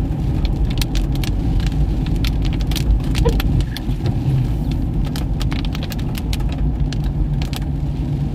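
Steady engine and road rumble heard inside a moving Toyota Fortuner, with irregular sharp ticks scattered over it.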